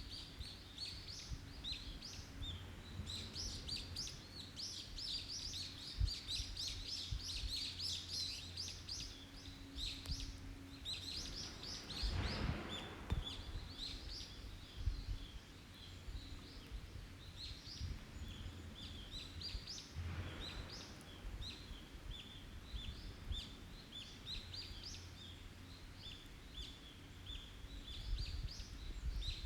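Small birds chirping rapidly and almost without pause, with a low steady rumble beneath and two brief rushes of noise partway through.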